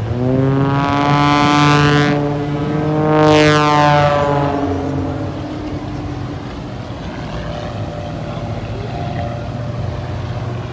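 Propeller airplane flying a close pass, its engine and propeller note rising slightly and then sliding down in pitch as it goes by. It is loudest about two and three and a half seconds in, then drops to a steadier, fainter drone.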